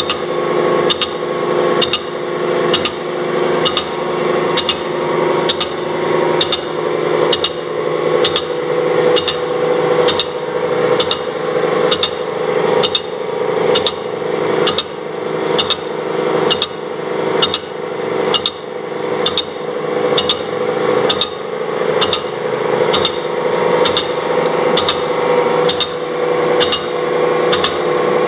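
Horizontal boring mill skimming a casting. The machine hums steadily under a sharp, evenly spaced tick that comes about one and a half times a second, each tick ringing briefly.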